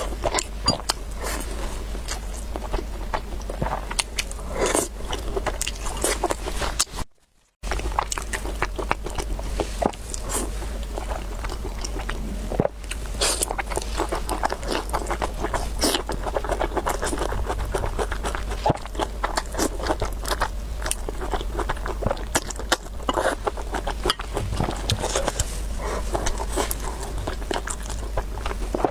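Close-miked eating sounds: chewing of noodles and food, with many small wet clicks and smacks over a steady low hum. It cuts out briefly about seven seconds in.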